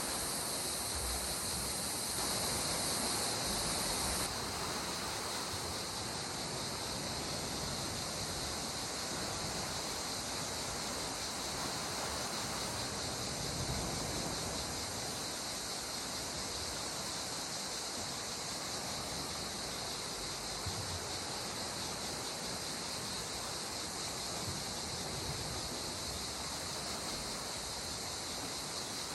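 Steady wash of calm sea water at the shore, with a constant high-pitched hiss over it that eases slightly about four seconds in.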